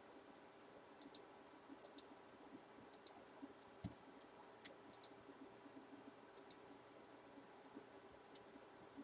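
Faint, sharp clicks of a computer mouse, mostly in quick pairs about once a second, over a low steady room hum.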